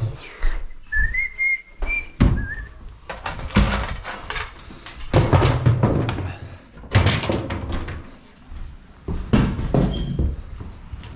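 A person whistling a few wavering notes near the start, then a run of heavy thumps and clattering knocks as debris is picked up and tossed around during a house clean-out.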